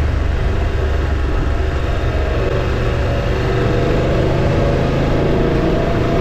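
Motorcycle engine running under way on a gravel road, with wind and road noise; the engine note rises in the last couple of seconds.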